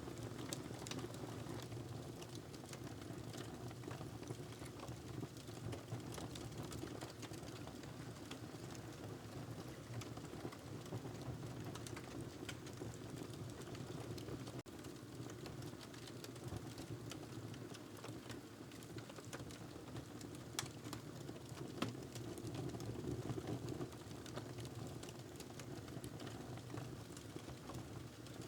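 Wood fire burning in a fireplace. There is a steady low rush of flames with small, irregular crackles and pops scattered throughout.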